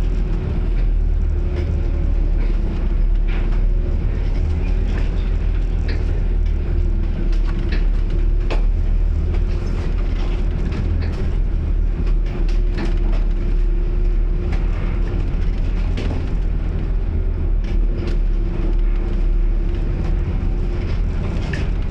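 Strong wind rumbling on the microphone at sea, over a steady low hum of machinery, with scattered knocks and rattles.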